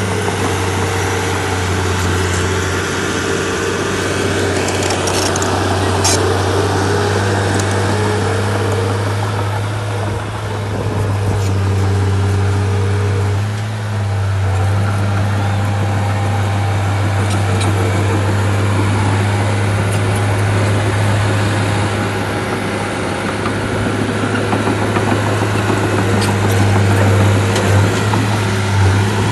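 A bulldozer's diesel engine running steadily, with brief dips in level about ten and fourteen seconds in.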